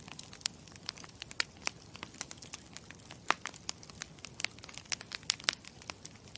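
Campfire crackling: many irregular sharp pops and snaps over a low steady hiss of burning wood, starting abruptly.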